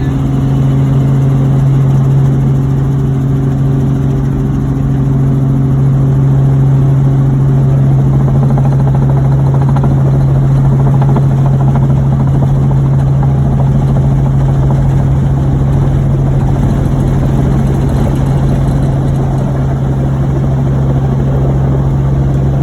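Helicopter in flight: a loud, steady engine and rotor drone with a strong low hum. Some fainter higher tones drop away about a third of the way through.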